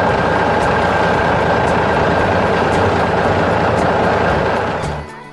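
Steady engine noise of a heavy construction vehicle running, dropping away near the end.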